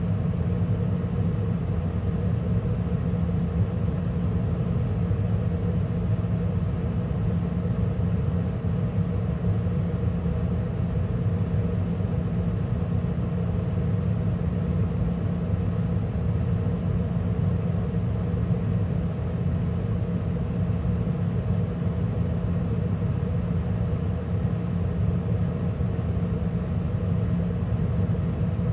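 2013 Carrier gas furnace running steadily in mid heating cycle, with the draft inducer, lit burners and circulating blower all on: a constant, even hum.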